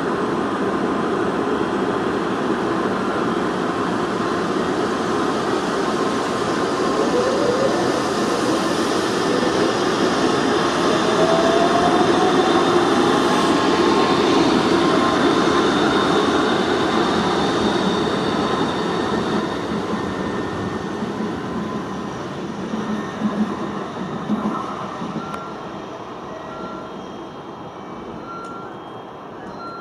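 A Tōkaidō Shinkansen train running on the tracks beside the platform. Its rushing noise swells to a peak midway, with a motor whine rising in pitch, then fades away. A run of short, evenly spaced beeps sounds near the end.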